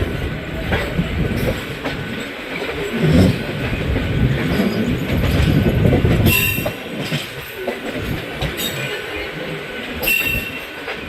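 Passenger train running on the rails, wheels rumbling and clattering, with brief high squeals about six seconds in and again near the end.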